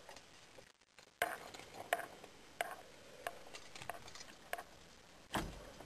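Faint, scattered clicks and knocks of handling inside a truck cab, about six over a few seconds, with the engine off.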